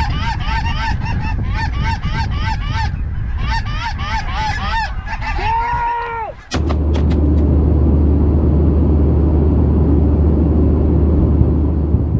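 A flock of geese honking, with many rapid overlapping calls and one longer drawn-out call near the end. About halfway through, the sound cuts abruptly to strong wind buffeting the microphone as a steady low rumble, with a few faint clicks just after the change.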